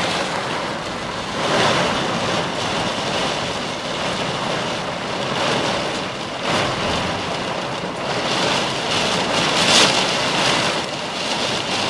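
Steady rain falling on a car, heard from inside, with a couple of brief louder surges of wind-driven rain.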